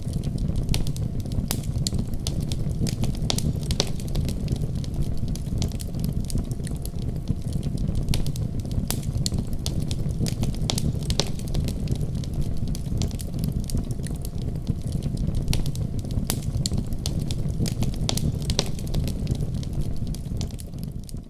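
Wood fire burning in a fireplace: a steady low rumble of flames with frequent sharp crackles and pops of burning logs. The level dips briefly near the end.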